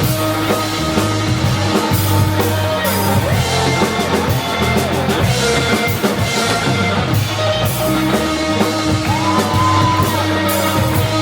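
Rock band playing: electric guitar, bass and drum kit, with cymbal strikes.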